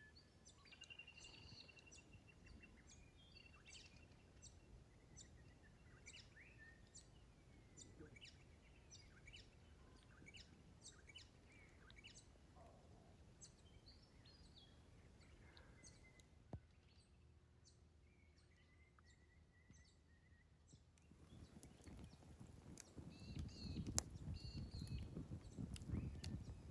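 Faint birdsong in the bush: many short, high chirps and a few brief trills over quiet background. In the last few seconds a low rustling noise grows louder, with one sharp click near the end.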